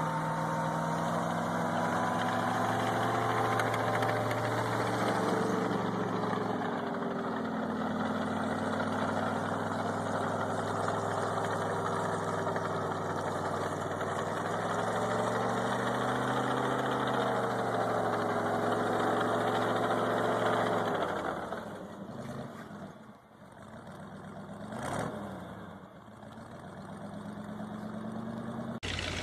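A heavy vehicle's engine running under varying load, its pitch rising and falling slowly. It drops away after about 21 seconds, then swells briefly near 25 seconds before an abrupt change near the end.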